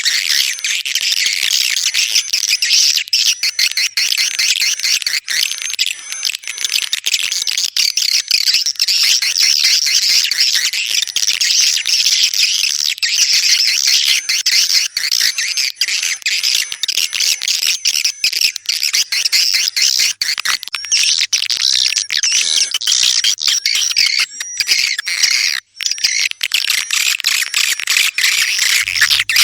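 Swiftlets calling: a dense, continuous chatter of high twittering chirps and clicks from many birds at once.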